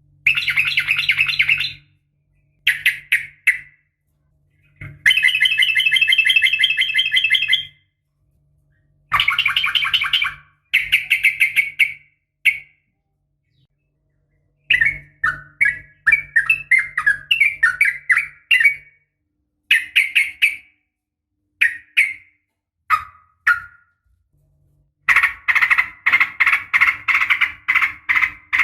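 Sooty-headed bulbul calling in bursts of rapid, chattering trills, each phrase about one to three seconds long with short pauses between. Midway it gives a run of short quick notes, and near the end a longer unbroken run.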